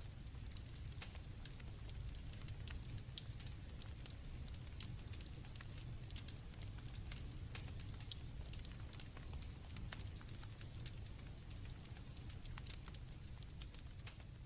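Campfire crackling with irregular pops over a low rumble, while crickets chirp in a steady high trill.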